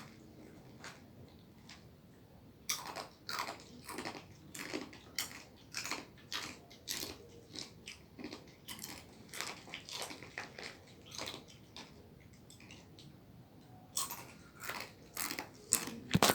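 Close-up chewing and biting with repeated sharp crunches of crunchy food, about two a second. The crunches pause for a couple of seconds near the end, then resume.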